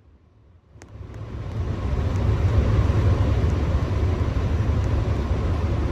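New York City subway train rumble that comes in about a second in, builds over a second or so, and then runs loud and steady.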